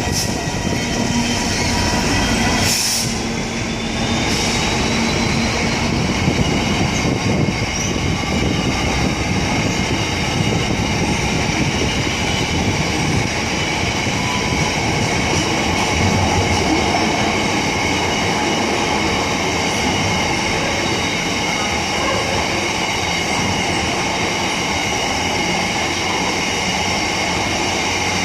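Freight train rolling through a station: a loud, steady rumble of wagons on the rails, with high-pitched wheel squeal held through most of the pass.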